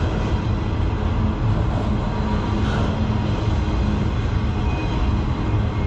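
Manifest freight train rolling past at close range, a steady rumble of wheels and rail cars on the track.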